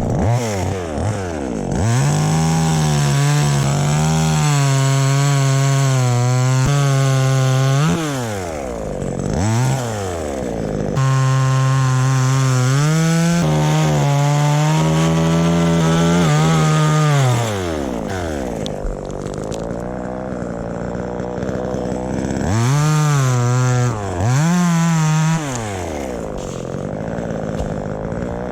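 Chainsaw running at full throttle, cutting wood in two long spells. Between them it drops back to idle, and near the end it revs up in two short bursts.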